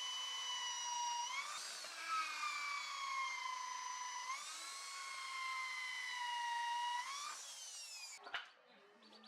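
Small electric power tool motor whining as it works the machete blade, its pitch sagging under load and jumping back up as the load eases, about three times. The motor cuts off a little after 8 seconds in.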